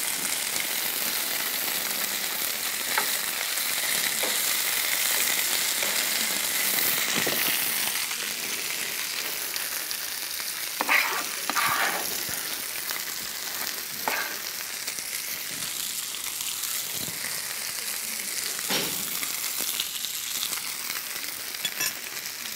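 Chicken pieces sizzling as they grill in a hot pan: a steady frying hiss, with a few short knocks around the middle and again near the end.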